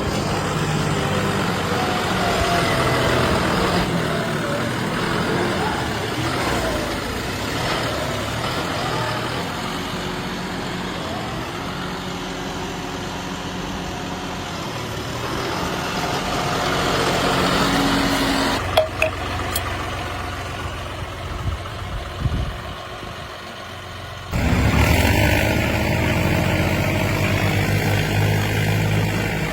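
Tractor diesel engines running, with people's voices over them. The sound changes abruptly twice, and for the last few seconds a single engine runs loud and steady.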